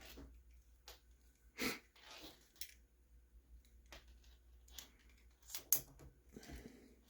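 Scattered faint rustles and clicks of small RC-truck parts being handled, with a few short sharper bursts in between.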